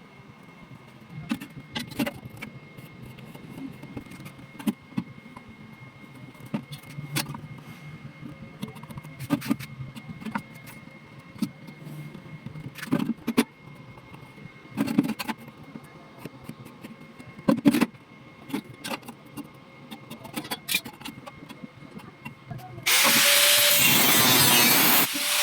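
Scattered knocks and taps of workshop handling, over a low hum, then about 23 s in a power tool starts abruptly and runs loud and steady.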